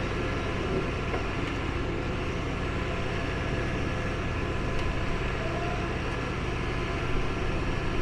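Demolition excavator running steadily, its engine and hydraulics giving a low even hum.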